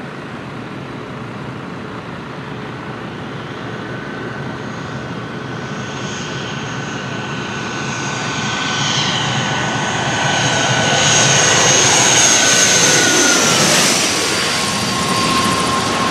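Boeing 757-200 jet engines on a low landing approach, growing steadily louder as it comes in and passing overhead with a whine that drops in pitch about 13 seconds in.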